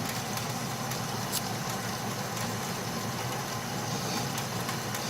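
Atlas metal lathe running steadily, its motor and drive making an even hum, with a few faint ticks.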